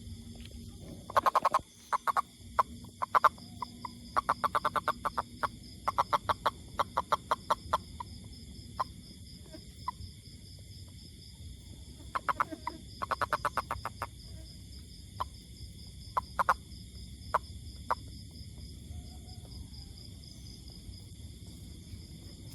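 A toad calling in trains of rapid, sharp pulses, with single pulses between the trains and several seconds of pause near the end. A steady high-pitched drone runs behind the calls.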